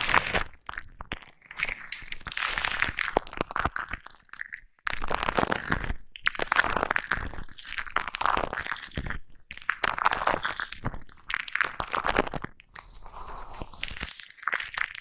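Foam brush rubbed over a microphone at close range: crunchy scratching in bursts of one to a few seconds, with short pauses between them.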